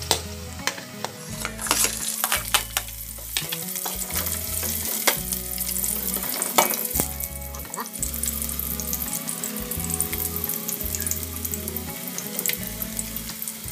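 Chopped garlic and ginger frying in hot oil in an aluminium pot, with a steady sizzle, while a metal ladle stirs and scrapes against the pot with frequent clicks and knocks.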